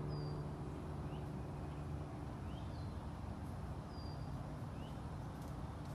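Scattered bird chirps, about six short single notes, some rising and some falling in pitch, over a steady low background rumble.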